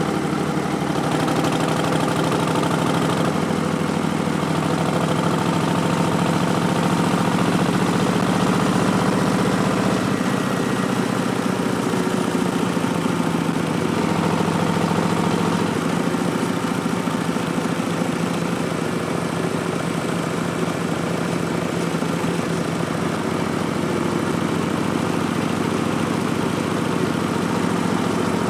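2019 Harley-Davidson Street Bob's Milwaukee-Eight 107 V-twin running through a Vance & Hines Twin Slash slip-on exhaust, a steady exhaust note that shifts a little in pitch about a second in and again about ten seconds in.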